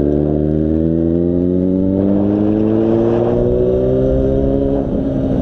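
Yamaha FZ6's inline-four engine under acceleration, its pitch climbing steadily for about five seconds, then dropping near the end.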